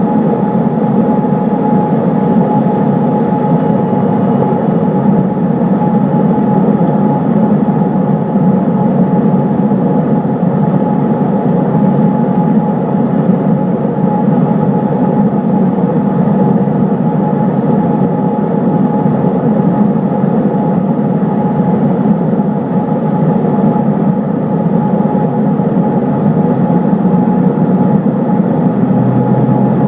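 Cessna 152's four-cylinder Lycoming engine and propeller running with a loud, unchanging drone.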